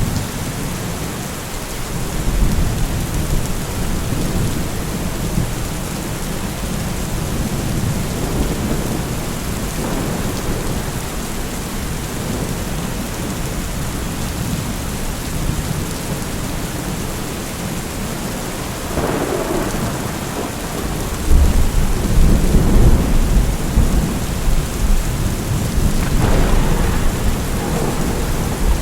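Thunderstorm: steady rain falling with several low rolling rumbles of thunder. The loudest, longest rumble comes in about three-quarters of the way through.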